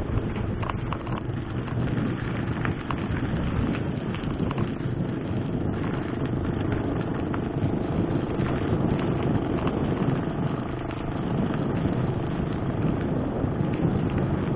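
A mountain bike with 29-inch wheels descending a dirt trail at speed: a steady rumble of tyres and air, with scattered rattling clicks from the bike.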